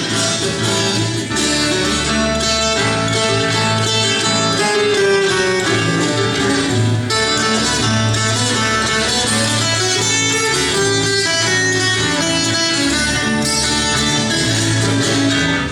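Instrumental break in a live caipira song: plucked acoustic guitars play the melody over a steady bass line, with no singing.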